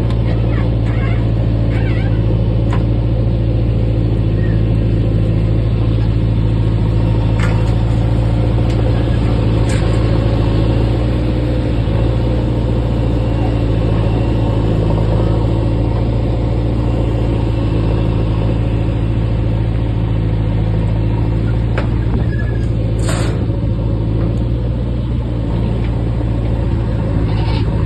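Heavy diesel engine running at a steady speed, with a low, even rumble that holds the same pitch throughout. A few brief knocks or clicks sound over it, the most distinct about 23 seconds in.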